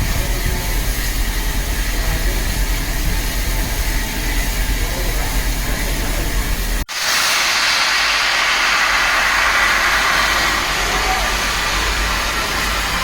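Steam locomotive standing in a station: a low rumble with faint voices, then, after an abrupt cut about seven seconds in, a loud steady hiss of steam.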